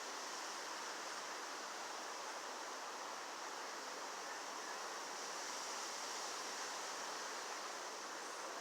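Strong wind blowing steadily, an even rushing noise with no gusts or knocks standing out.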